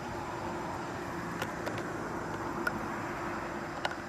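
A vehicle engine running steadily at idle, with a few light clicks over it.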